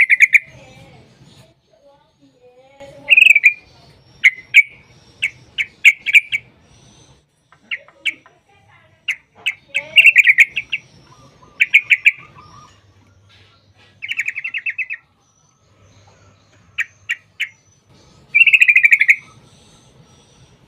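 Yellow-vented bulbul (trucukan) calling: loud, quick chattering trills and single sharp chips, a burst every second or two, including several longer rolling trills.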